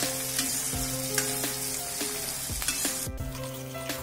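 Whole shallots and dried red chillies sizzling in hot sesame oil in a kadai, stirred with a steel ladle that scrapes and clicks against the pan.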